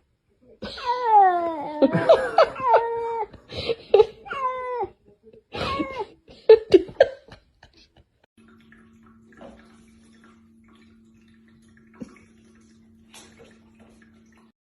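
A cat meowing over and over, a quick series of loud calls that slide down in pitch, lasting about six seconds. After that only a faint steady hum remains, with a single click near the end.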